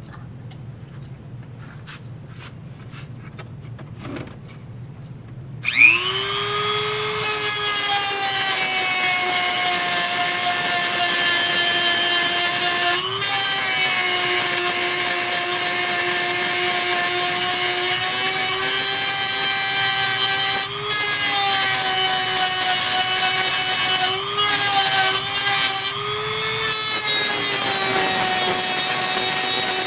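A small high-speed power grinding tool starts about six seconds in, spins up to a steady high whine and grinds away at a metal basket hinge. Its pitch sags briefly a few times as it bites under load.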